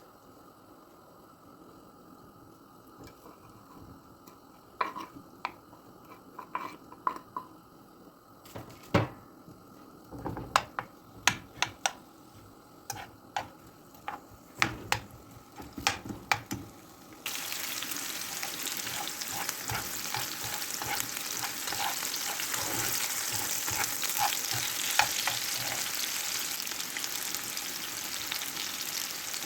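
Scattered sharp clicks and knocks of utensils against a pan, then a little past halfway food goes into hot oil and a loud, steady sizzle starts, with light stirring clicks over it.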